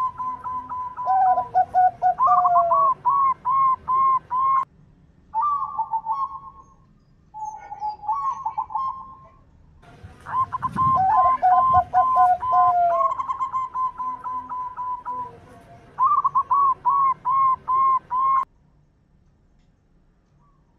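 Zebra dove (perkutut) cooing: several phrases of quick, evenly repeated coo notes, some stretches dropping to a lower run, each phrase starting and stopping abruptly. The cooing stops about 18 seconds in.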